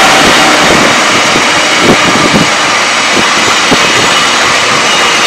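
Empty container freight train behind a WAG-7 electric locomotive running past close by, gathering speed: a loud, steady rush of wagon and wheel noise with a few irregular knocks of wheels over rail joints.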